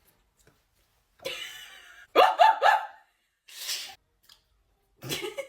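A person making an improvised vocal sound effect: a breathy huff, then three quick pitched yelps, then a short hiss.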